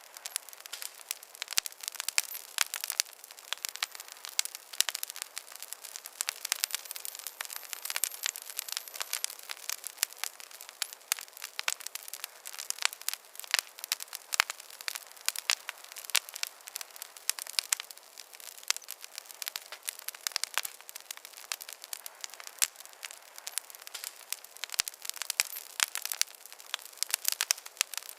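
Campfire crackling: a dense, irregular run of small sharp pops and snaps, several a second, over a soft hiss.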